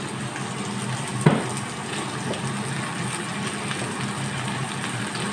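Chicken frying in oil with onion and garlic in a pan, a steady sizzle, with one sharp knock about a second in.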